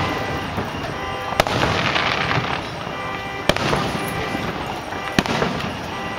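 Aerial fireworks shells bursting overhead: three sharp bangs, roughly two seconds apart.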